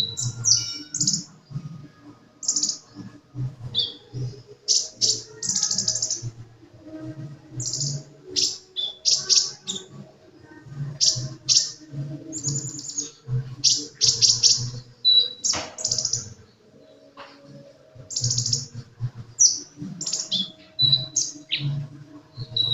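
Caged sunbird (the Indonesian cage-bird 'kolibri') singing actively: quick runs of short, high chirps and trills with brief pauses between phrases.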